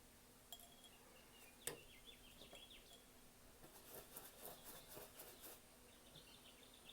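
Near silence, with faint bird chirps in the background and a single light click nearly two seconds in. In the second half there are faint, soft repeated strokes.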